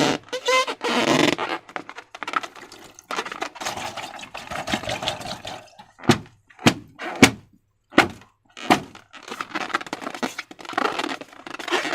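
Slime being squished and worked by hand with balloons: sticky squelching and rubbery squeaks, then a run of five sharp clicks a little past the middle.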